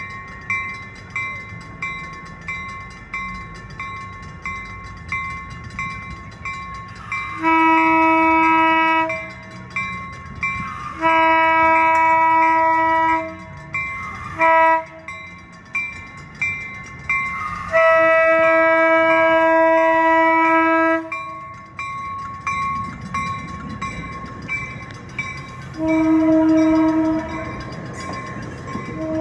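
Southbound NCTD Coaster commuter train's horn sounding the grade-crossing pattern as it approaches: two long blasts, a short one and a long one, then another blast. Under it a grade-crossing warning bell dings steadily, about one and a half strokes a second.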